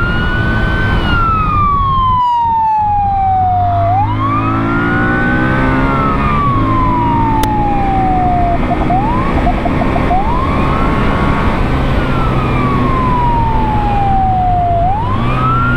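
Police motorcycle siren wailing: each cycle rises quickly and falls slowly, about every five seconds, with a few short quick yelps a little past halfway. The Honda ST1300's V4 engine runs underneath.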